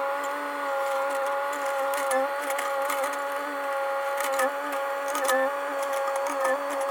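Mini excavator running steadily with a constant whine, with sharp knocks and clanks now and then as it works.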